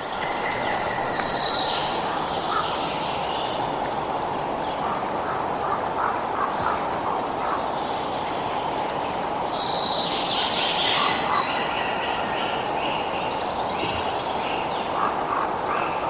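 Birds singing over a steady rushing background. A falling song phrase comes about a second in and again near the middle, with short chirps between.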